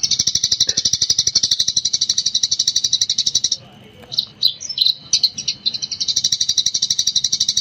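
Eurasian tree sparrow singing in a fast, continuous chattering rattle of high notes. The rattle breaks off for a few separate chirps about halfway through, then starts again.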